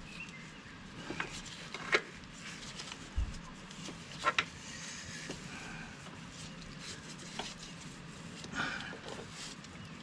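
A few light clicks and knocks from handling hydraulic hoses and fittings, over a low steady background hum. The sharpest knocks come about two seconds in and just past four seconds in.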